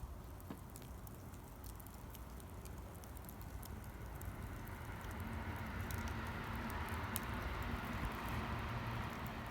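Wood campfire crackling, with scattered sharp pops over a steady hiss that grows gradually louder.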